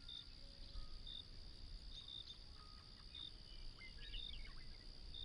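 Faint night ambience of crickets: a steady high trill with short chirps repeating irregularly over it, and a brief bird call about four seconds in.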